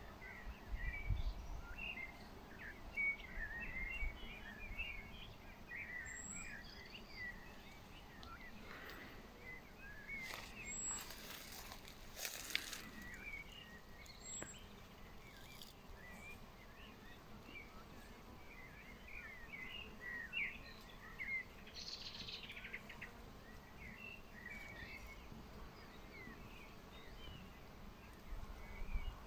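Small birds chirping faintly and repeatedly in short calls, with a brief rustle about ten to thirteen seconds in.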